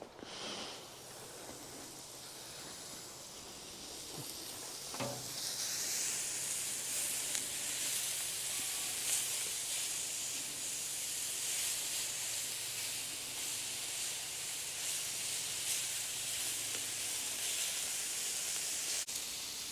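Peppers and onions frying on a hot cast iron campfire griddle, a steady sizzle. There is a soft knock about five seconds in, and after it the sizzle grows clearly louder.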